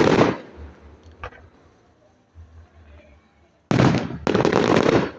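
Fireworks going off in an outdoor display: a loud sudden bang at the start that fades within half a second, then two longer loud bursts near the end, the second lasting about a second.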